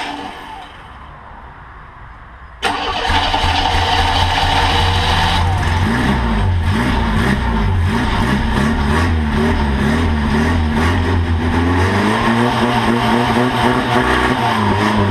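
Monster trike's engine with a freshly rebuilt carburetor dying down in the first second, then catching suddenly about two and a half seconds in. It runs on, revving up and down through the later part. The owner suspects the float is set too low or that it needs the choke on.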